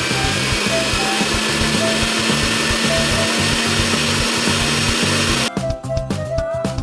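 A loud, steady rushing sound effect with a low hum, laid over a simple background tune. It cuts off suddenly about five and a half seconds in, leaving only the tune.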